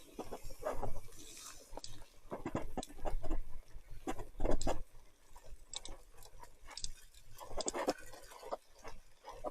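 Irregular clicks, knocks and squelchy rattles from a mountain bike ridden over a wet, muddy trail, with a low rumble underneath.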